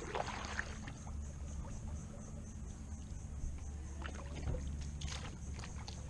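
Kayak drifting through a narrow mangrove tunnel: light water sounds around the hull with a few short knocks and scrapes, several of them clustered about four to five seconds in, over a low steady rumble.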